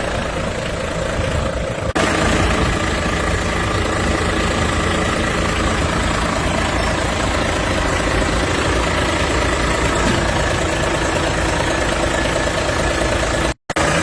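Volvo FH 460's D13K straight-six diesel engine idling steadily. About two seconds in the sound jumps a little louder and brighter, and near the end it cuts out for an instant.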